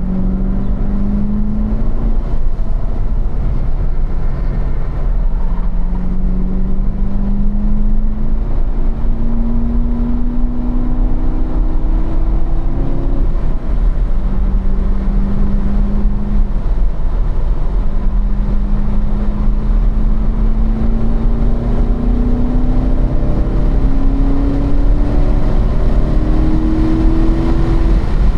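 2015 Corvette Stingray's 6.2-litre LT1 V8 under hard acceleration on track, heard from inside the cabin over tyre and wind noise. The engine note climbs, drops sharply at an upshift from third to fourth about halfway through, then rises steadily through a long pull in fourth to about 5,000 rpm.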